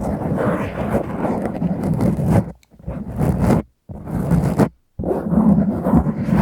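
Fingers scratching a foam windscreen on a microphone, close up, a dense rough rustling with deep rumble, stopping briefly two or three times midway.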